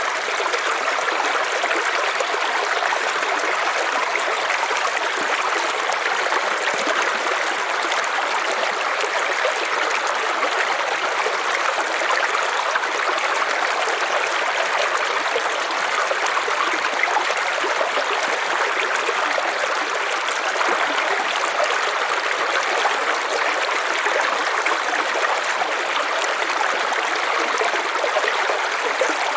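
River water flowing steadily, a continuous even rushing with a light trickling and gurgling texture.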